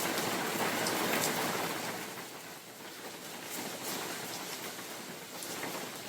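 Spring rain falling on forest leaves, a steady hiss with scattered drop ticks, with wind swelling in the first couple of seconds and then easing.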